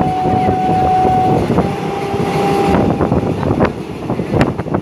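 Train running on the rails, heard from on board: a steady rumble and rattle of wheels and carriage. A steady whistle-like tone is held for about a second and a half, then for about another second with a lower tone under it. Several sharp clacks follow, the loudest near the end.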